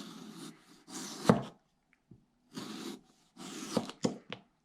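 Chef's knife sawing thin slices off a raw potato on a cutting board: four short rasping strokes, the second ending in a sharp knock of the blade on the board, and two light clicks near the end.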